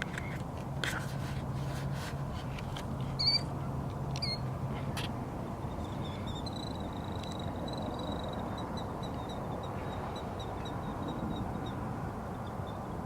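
Wild birds calling: two short sharp calls about a second apart, then a long run of rapid high notes, over a steady background hiss, with a low hum in the first few seconds.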